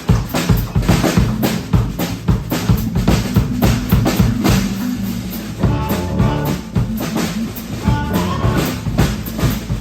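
Live band playing, the drum kit driving a busy beat over a heavy low end; higher melodic notes join about six seconds in.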